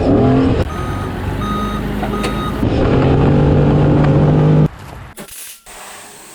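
Car engine running and revving, its pitch rising and then held high. Three short electronic beeps come about a second in. The engine sound cuts off abruptly about five seconds in, leaving quieter background noise.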